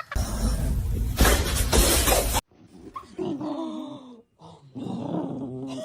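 A loud burst of crash-like noise for about two and a half seconds that cuts off abruptly, followed by a dog vocalising in drawn-out calls that waver up and down in pitch.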